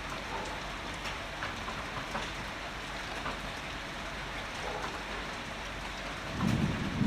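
Heavy rain falling steadily, with scattered drops ticking close by. Near the end a low rumble of thunder begins to build.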